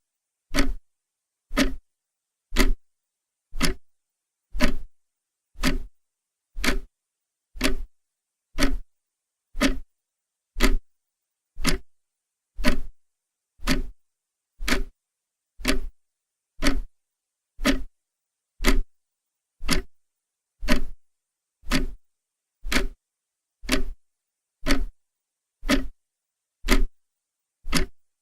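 Clock ticking steadily, one sharp tick about every second with silence in between.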